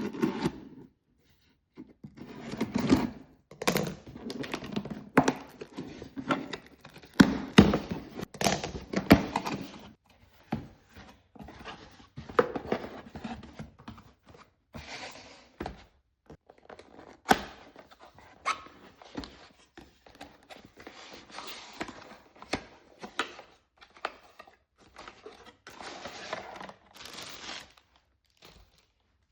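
Headphones being unboxed and handled: packaging rustling in irregular bursts, broken by many sharp clicks, taps and thunks.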